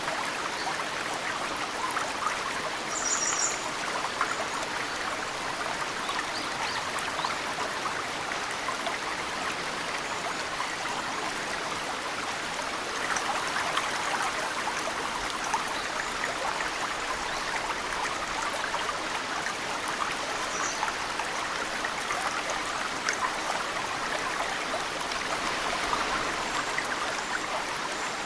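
Mountain stream flowing steadily, with snowmelt dripping and trickling into it from tree roots. A bird chirps briefly a few times, about three seconds in, past the middle, and near the end.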